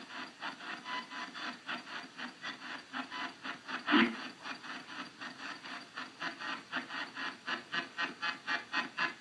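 Spirit box sweeping through radio stations: a rhythmic chopping of static, about three short bursts a second, with one louder thump about four seconds in.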